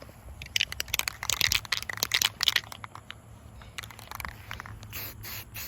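Aerosol can of filler primer being shaken, its mixing ball rattling fast for about two seconds, then a few short hisses of spray near the end.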